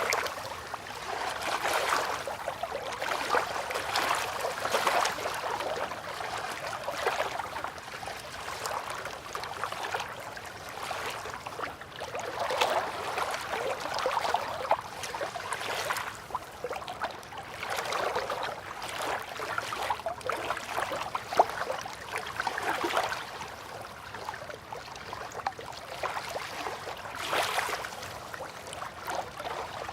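River water lapping and splashing at the bank, in uneven swells every second or two.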